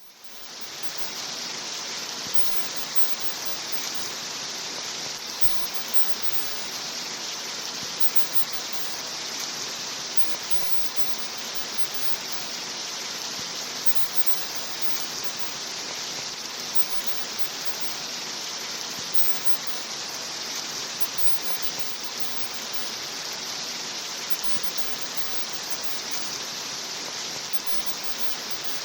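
Steady rain, heard as an even hiss with no separate drops standing out, fading in over about the first second.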